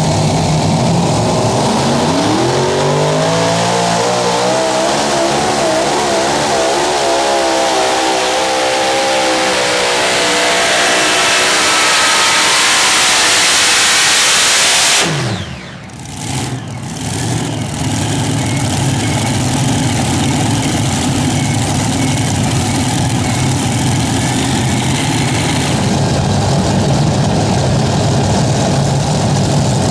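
A super modified pulling tractor's engines rev up and run at full power down the track, their sound building to a loud roar. About halfway through the power is cut and the pitch falls away sharply. A steadier, lower engine sound follows.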